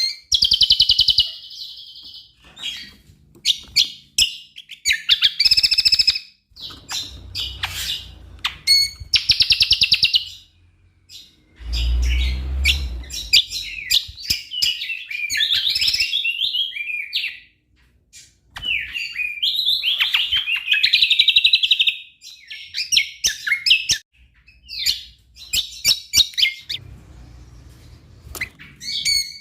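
Cucak kombo songbird singing a loud, varied song in bursts of fast trills, chirps and warbled phrases with short pauses between them, its song full of mimicked fills. A brief low rumble comes about midway.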